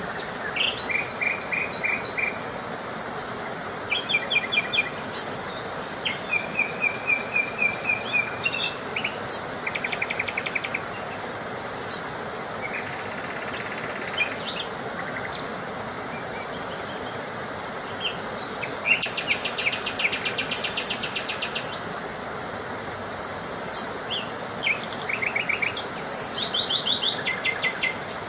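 Songbirds singing in short, rapid trills of repeated high notes, one after another at different pitches, over a steady background hiss.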